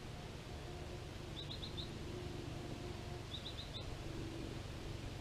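Outdoor ambience with a steady low background rumble, over which a small bird repeats a short phrase of about four quick high chirps roughly every two seconds.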